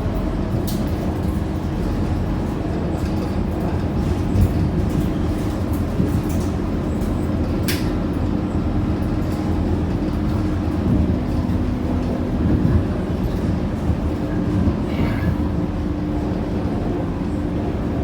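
Inside a Scania K230UB single-deck city bus under way: the steady rumble of its five-cylinder diesel engine and the road, with a couple of sharp rattling clicks from the cabin about one and eight seconds in.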